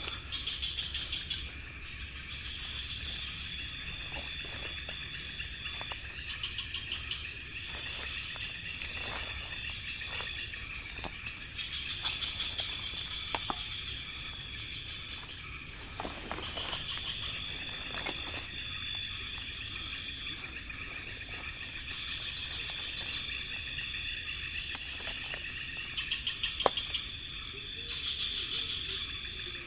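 A chorus of night insects in tropical forest: a steady high-pitched whine with overlapping pulsing trills that swell and fade every few seconds. A few faint taps are scattered through it.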